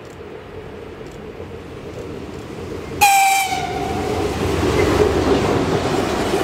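An approaching train's rumble grows, then about three seconds in a train horn gives one short, high-pitched blast, and the loud rumble of the train passing close by follows.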